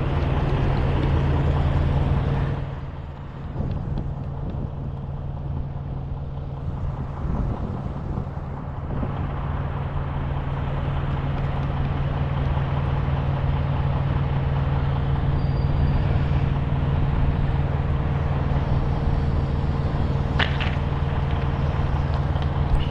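A heavy vehicle engine idling steadily with a low, even hum, dipping in loudness briefly about three seconds in; a short sharp sound comes near the end.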